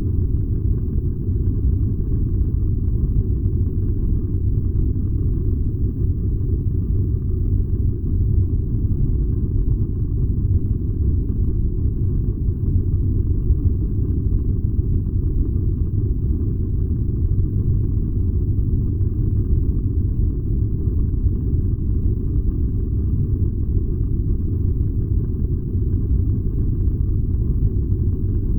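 Furnace running with a steady, unbroken low rumble.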